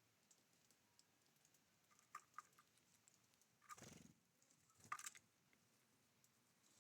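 Faint clicks and taps of small birds at a feeder, with two brief louder scuffles about four and five seconds in.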